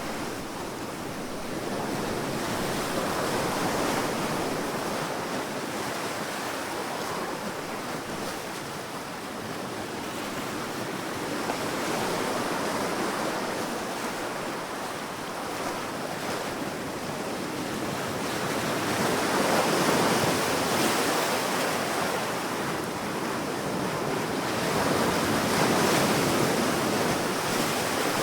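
Sea waves breaking and washing on a sandy beach: a continuous hiss of surf that swells and eases every several seconds, loudest about twenty seconds in and again near the end.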